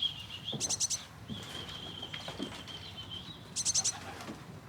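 A small songbird singing: a long high trill, broken by two short, louder bursts of rapid chirps, about a second in and near the end.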